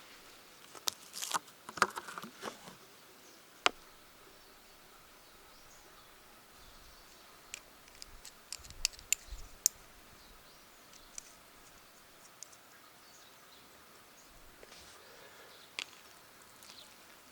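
Small wood fire crackling in a compact fire pit: scattered sharp snaps and pops, a cluster about a second in and a few more around the middle, over a faint steady outdoor background.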